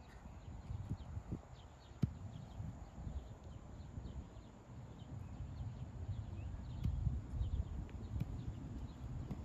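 Outdoor ambience: a low rumble, like wind on the microphone, with faint high chirps and a couple of sharp clicks, one about two seconds in and another near seven seconds.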